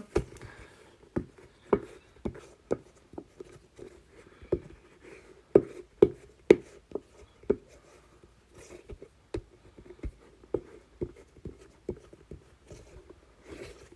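Silicone bubbles of an inflatable Pop-It rugby ball popping one after another at an irregular pace, a sharp pop every half second or so. The louder pops cluster around the middle. The bubbles on this ball are small, so each pop is small, but there are many of them.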